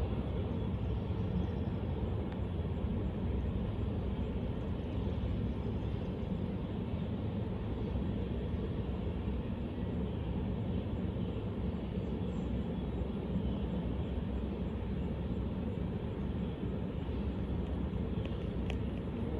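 Train rolling past after its horn has stopped: a steady rumble and rail noise with no horn and no change in level.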